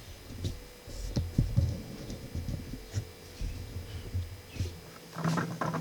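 Irregular low thumps and light knocks from a plastic bucket and small fittings being handled, with a brief scraping rub near the end. A faint steady hum sits underneath.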